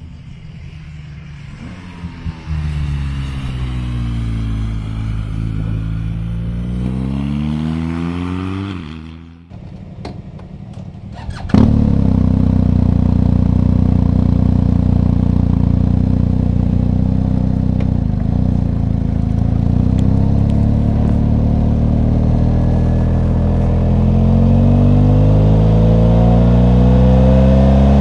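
BMW R 1250 GS boxer-twin engine running on the move. Its revs drop and pick up again in the first part. About a third of the way in it suddenly gets much louder and runs steadily, then its revs climb near the end.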